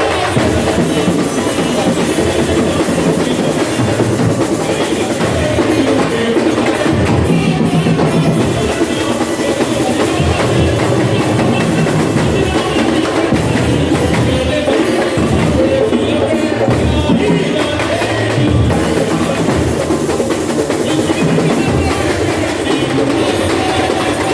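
Samba-school drum section (bateria) playing a samba rhythm, with deep drums and high, clicking percussion over them.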